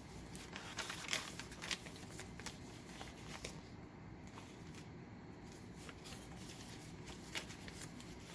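Pages of a handmade paper junk journal being turned and handled: light paper rustles and flicks, busiest between about one and two seconds in, with another flick near the end.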